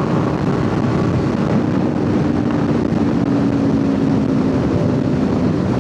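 Kawasaki Ninja 500 parallel-twin engine running at a steady cruise, its note easing slightly lower, with wind rush on the helmet microphone.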